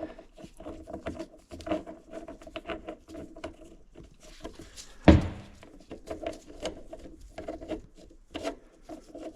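Small metal clicks and scraping as a Tusk flywheel puller is turned by hand into the reverse-threaded boss of a Yamaha Tri-Z flywheel. One sharp metallic clank about five seconds in.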